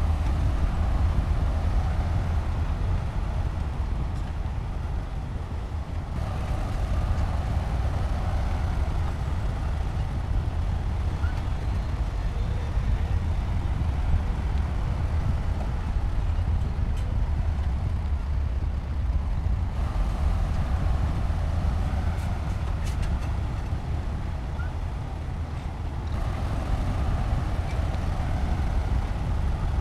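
Heavy earthmoving machinery's diesel engine running steadily under load: a deep continuous rumble that eases slightly twice.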